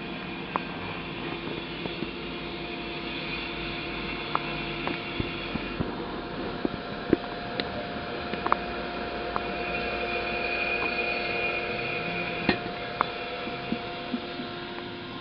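Firewood burning in an agungi fire-box under an ondol floor: irregular sharp crackles and snaps over a steady hum.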